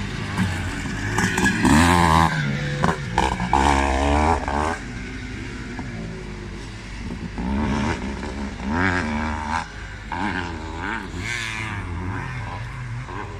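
Classic motocross motorcycles racing, their engines revving up and down as they pass. The loudest passes come about two and four seconds in, with further passes later.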